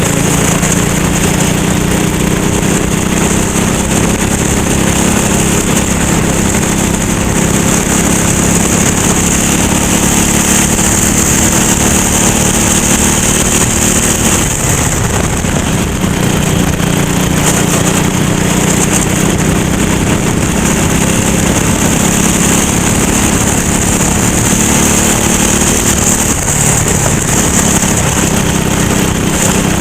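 Go-kart engine running hard on track, with a steady pitch that drops briefly about halfway through and again near the end as the kart slows, then picks up again. A steady high hiss runs underneath.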